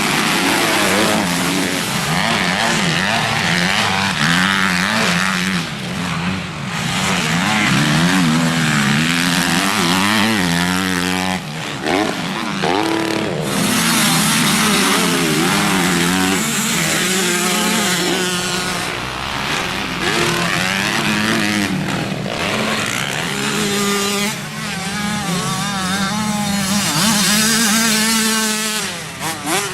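Motocross bikes' engines revving hard, pitch rising and falling over and over with throttle and gear changes, several bikes overlapping at times.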